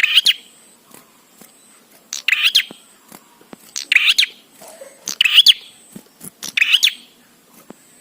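Prenjak (a small prinia) calling: five short, rapid, high chirping bursts, each about half a second long, repeated at an even pace of roughly one every one and a half seconds.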